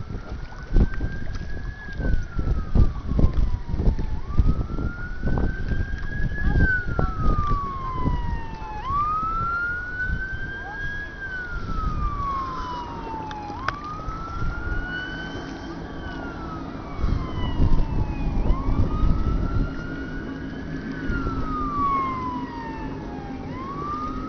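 A siren on a slow wail: the pitch rises over about two seconds, then falls over about two and a half, about five times. Under it is a heavy low rumble with buffeting thumps, strongest in the first half.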